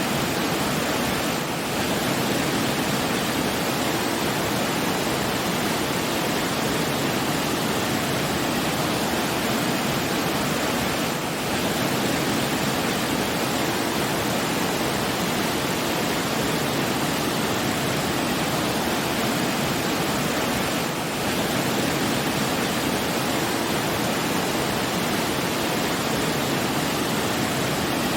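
Steady, even rushing of falling water, with a brief dip in loudness about every ten seconds.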